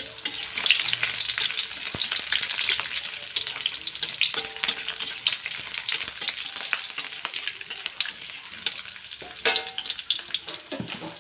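Chopped garlic sizzling and crackling as it fries in hot oil in a wok, stirred with a metal spatula.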